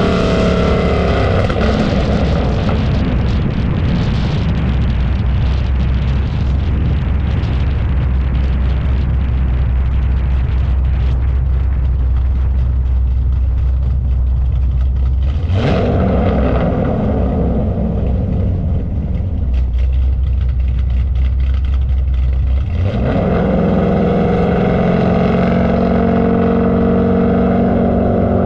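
Car engine running at a steady speed with a heavy low rumble, without any rev build-up. The sound shifts in character twice, a little past halfway and again about two-thirds through.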